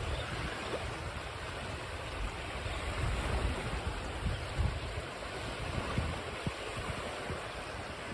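Ocean surf washing steadily, with gusty low rumble like wind on the microphone.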